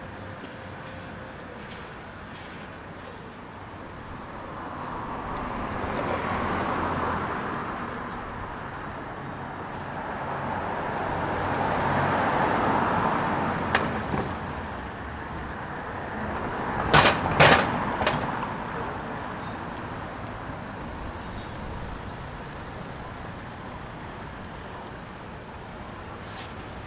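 City street traffic: vehicles pass close by in two swells, and about seventeen seconds in come three short, sharp bursts, the loudest sounds here, before a steady background traffic hum returns.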